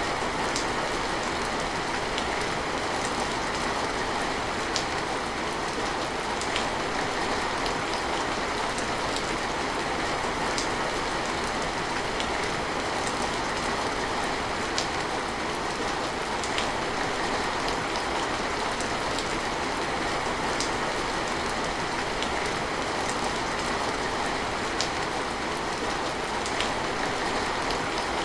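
Steady rain falling, an even hiss with a few sharper drops ticking out every second or two.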